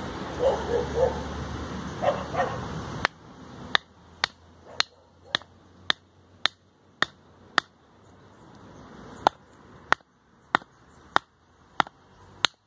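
Batoning: a knife blade driven into a eucalyptus log by blows on its spine, heard as a steady run of sharp knocks about two a second, with a short pause partway through. Before the knocking starts, a dog gives a few short whines.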